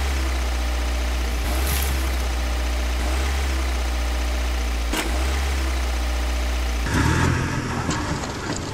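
Truck engine idling steadily with a deep hum, with one sharp click about five seconds in. Near the end the engine sound turns louder and rougher.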